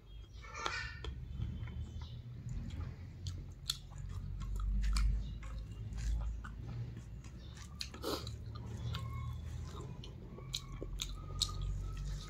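A person chewing a mouthful of rice eaten by hand, a steady low munching with small clicks from the mouth now and then.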